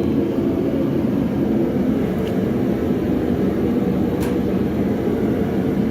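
A forge running steadily, a constant low rushing noise, with a couple of faint light clicks.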